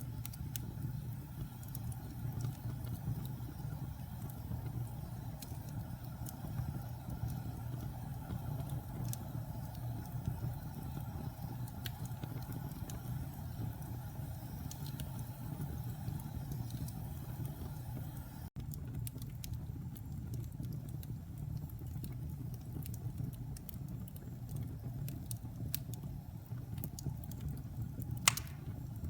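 Fire burning in a fireplace: scattered crackles and pops over a steady low rumble, with one sharper pop near the end. The sound drops out for an instant about two-thirds of the way through.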